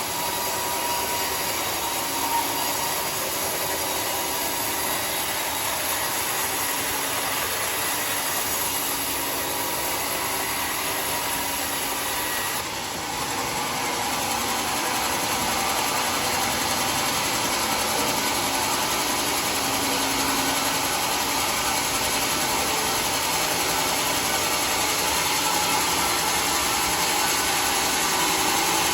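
Circular sawmill running with a steady, loud noise of blade and machinery. It dips briefly about thirteen seconds in, then runs on slightly louder.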